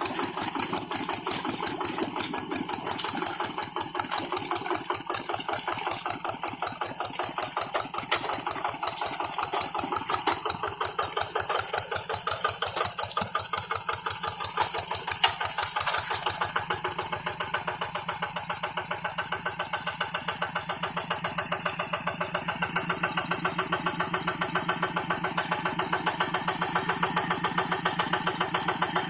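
Rice-field tractor engine running steadily with a fast, even firing beat; a little past halfway its note changes and the higher-pitched hiss drops away.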